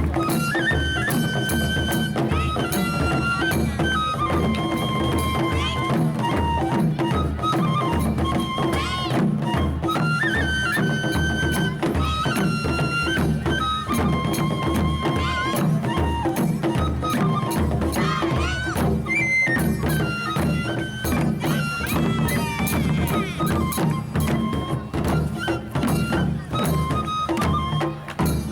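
Japanese taiko drum ensemble playing continuous, busy drumming under a folk melody of held, stepping high notes.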